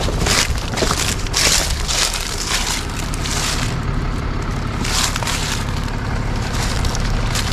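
A vehicle engine running low and slow, with a crunching, crackling noise of tyres rolling over rocks and gravel, coming in uneven bursts.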